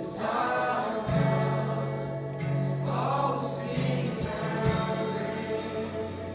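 Congregation singing a gospel hymn with instrumental accompaniment and a steady bass line.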